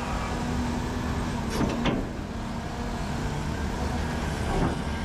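Heavy diesel earthmoving machinery running steadily: the big excavator working with haul trucks nearby, a low rumble with a steady hum. There is a short higher-pitched sound about two seconds in.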